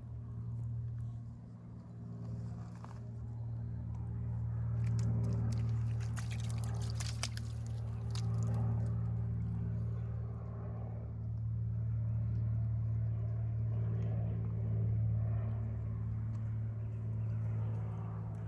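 Steady low engine drone, like a vehicle or vessel running at constant speed, with a short patch of crackling about six to eight seconds in.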